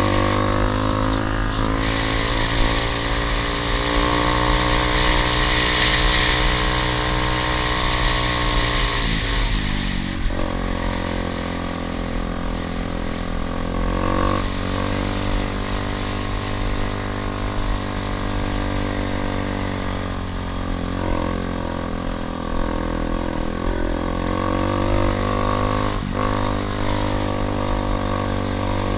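Dirt bike engine running while riding, its pitch steady for several seconds, then dropping sharply about nine seconds in and shifting up and down a few more times as the throttle and gears change, over a steady hiss.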